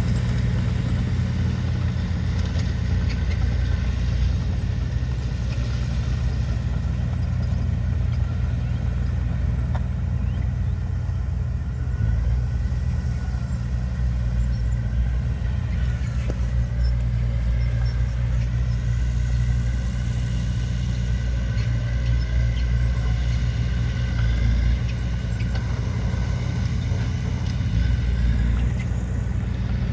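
Heavy diesel earthmoving machinery running steadily under load, with a deep, even engine drone. A fainter whine drifts up and down in pitch over the second half.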